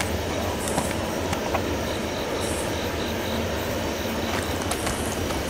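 Approaching train: the steady low rumble of diesel locomotives drawing near, with a faint high repeated chirp a couple of seconds in.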